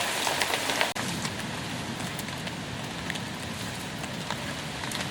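Steady rain falling, an even hiss with scattered sharper drop taps. About a second in the sound breaks off abruptly and goes on as slightly quieter, steady rain.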